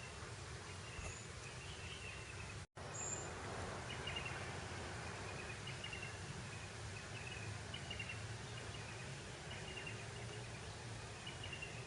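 Breeze blowing over grassland as a steady hiss, with faint high chirps every second or two. About two and a half seconds in, the sound cuts out completely for a split second.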